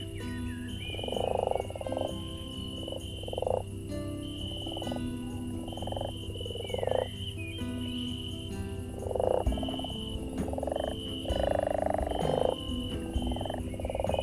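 Night forest animal chorus: rasping, croaking calls repeat every second or two, over a high, steady insect-like trill that pulses on and off.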